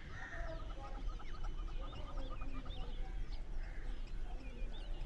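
Background birds chirping and calling, many short quick notes one after another, over a steady low hum.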